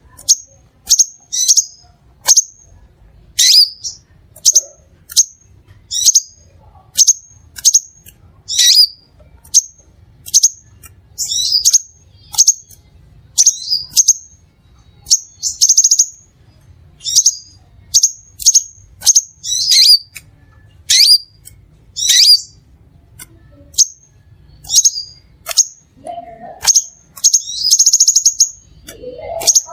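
Crimson sunbird calling: a steady series of short, sharp, high chirps, about one or two a second, with a longer rattling trill near the end.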